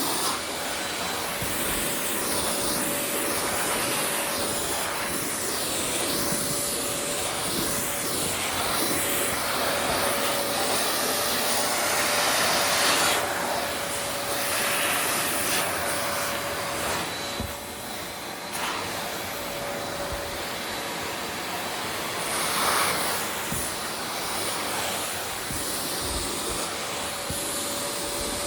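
Vacuum cleaner running steadily with a constant motor whine, its noise swelling and easing as it is pushed around the floor.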